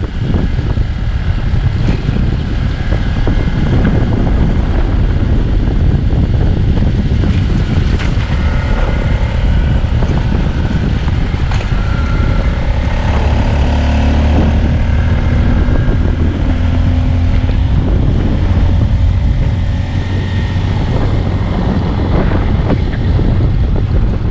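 Heavy wind buffeting the microphone, with a steady engine rumbling underneath.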